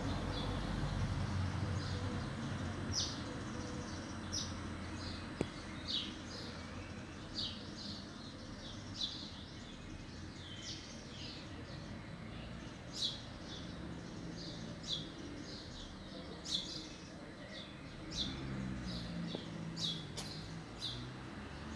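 Small birds chirping: short high chirps, roughly one every second, over a steady low background rumble.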